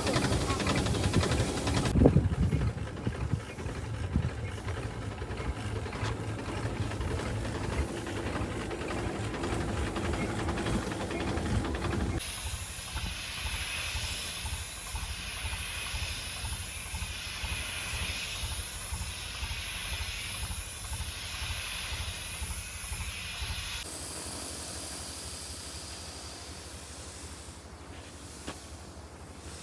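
Tractor-mounted sprayer pump running with a steady low pulsing, with a thump about two seconds in. Partway through, a loud hiss of liquid spraying starts abruptly, holds steady for about twelve seconds, then cuts off suddenly, leaving the pump running.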